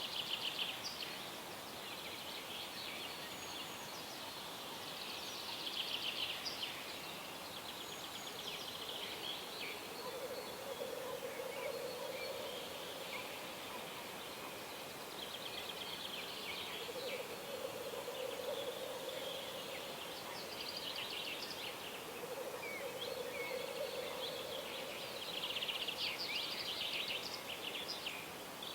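Dawn chorus of several songbirds singing and trilling over a steady background hiss. From about ten seconds in, a lower call of about two seconds repeats roughly every six seconds.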